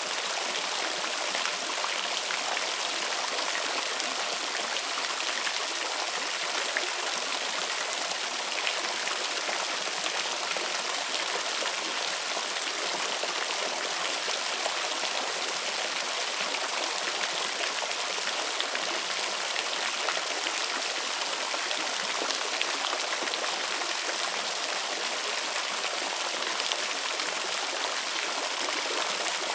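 Waterfall: falling water splashing in a steady hiss, mostly high and bright with hardly any low rumble, dotted with small drop splashes.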